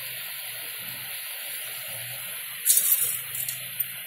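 Chicken pieces sizzling steadily as they fry in oil with ginger-garlic paste in a pressure-cooker pot. About two and a half seconds in, a ladle starts stirring them, with a louder brief scrape and a few light clicks.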